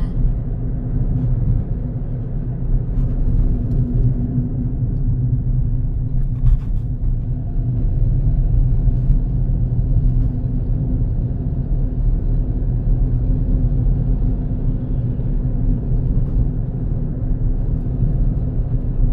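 Car driving at road speed: a steady low rumble of engine and tyres. About six and a half seconds in, a brief rattle stands out from it.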